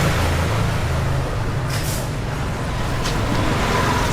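Street traffic: a heavy motor vehicle's engine running close by, with a short hiss about two seconds in and another near three seconds.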